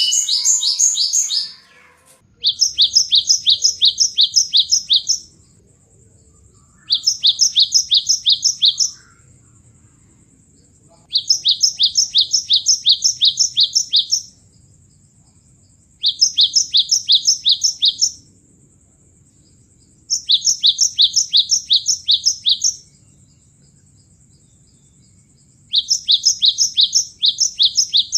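Cinereous tit (gelatik batu) song: bursts of fast, evenly repeated high notes, about three or four a second, each burst lasting two to three seconds. Six bursts come at regular gaps of a couple of seconds.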